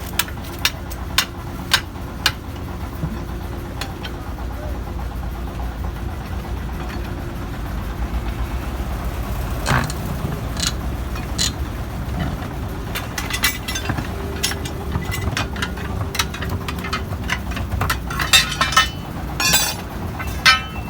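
A steady low engine hum under scattered sharp metallic knocks and clinks, which come more thickly near the end.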